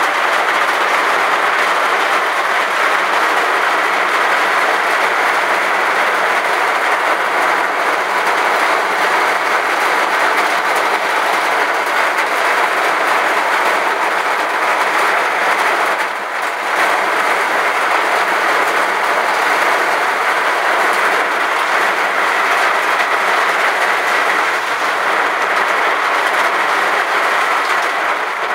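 Heavy rain falling in a steady, dense downpour, easing briefly about sixteen seconds in.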